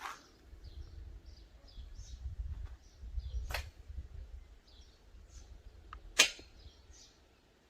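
Three sharp knocks or taps, one near the start, one a little before the middle and the loudest about six seconds in, over a low rumble, with faint bird chirps.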